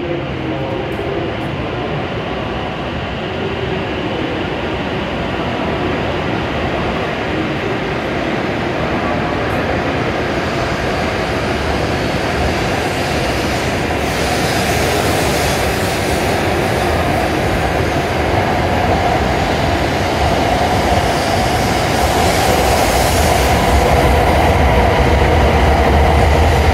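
W7 series Shinkansen electric train pulling out of the platform and gathering speed, its running noise growing steadily louder, with a hum that strengthens in the second half.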